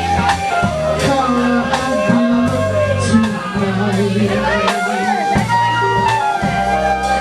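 Live band playing a slow funk groove: held bass notes and a steady drum-kit beat under a gliding lead melody.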